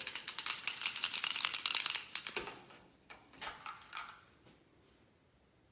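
A rattling toy being shaken: a fast, bright rattle for about two and a half seconds, then a shorter shake about a second later.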